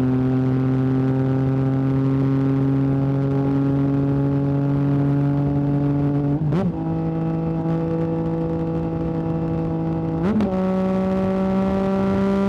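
Yamaha MT-09 three-cylinder engine through an Akrapovic exhaust, running at steady revs. Twice, about six and a half and ten and a half seconds in, its pitch steps up with a short blip as the bike changes down a gear.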